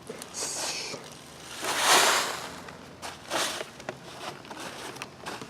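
Potato plants and soil being handled, rustling and crunching in several short bursts, the loudest about two seconds in.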